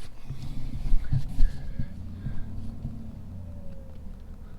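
Low rumble of a vehicle on the move, with a few heavy thumps about a second in, as from a pickup jolting over a rough road.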